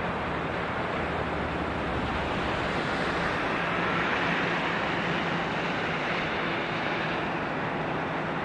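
Steady rush of heavy rain, with the low drone of a jet airliner's engines, an Airbus A320 coming in to land, underneath. The rushing swells a little about halfway through.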